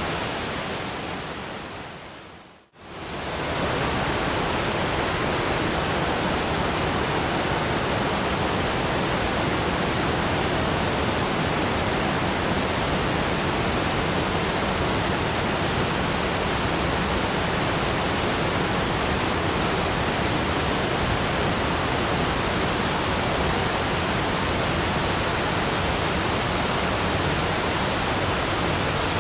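Steady, even rush of cascading waterfalls. About two and a half seconds in it fades to near silence, then swells back up within a second or so, as at a loop or edit point.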